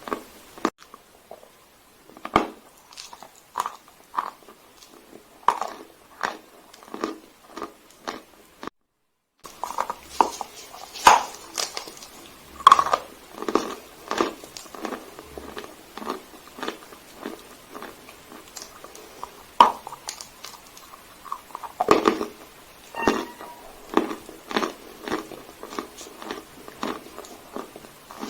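Dry Sevryukovo chalk crunching as it is bitten and chewed close to the microphone: irregular sharp crunches and crackles, with a short cut to silence about nine seconds in.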